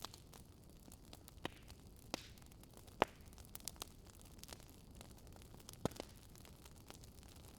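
Wood fire crackling in a fireplace: a faint steady hiss with sharp, irregular pops and snaps, the loudest about three seconds in and a pair near six seconds.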